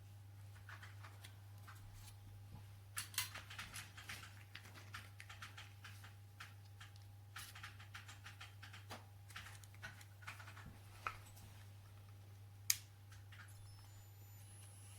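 Scattered light clicks and taps of small hard objects being handled, irregular and close to the microphone, with one sharper click near the end, over a steady low electrical hum.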